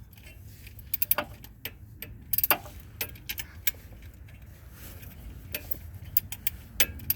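Scattered sharp metallic clicks and clinks of hand tools and bolts being worked while a replacement alternator is bolted into place in a car's engine bay, with a short cluster of clinks about two and a half seconds in.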